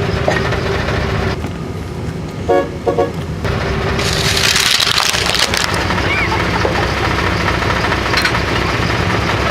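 1995 Cadillac Fleetwood's V8 running, with two short horn toots about two and a half seconds in. From about four seconds in, a loud hiss of tyre noise joins the engine as the car rolls forward.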